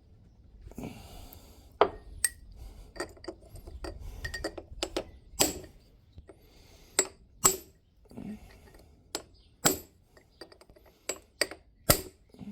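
Light, ringing metal-on-metal taps, about fifteen at an uneven pace: a broken chisel set on the edge of a greased steel bearing and struck to drive the bearing into its housing.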